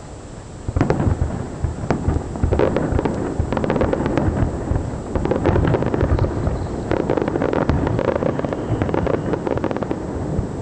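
Fireworks bursting in rapid succession: after a quieter first second, a dense, continuous barrage of booms and crackling pops.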